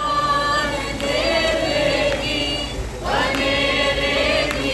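A group of voices singing a worship song together, holding long notes, with a brief break about three seconds in.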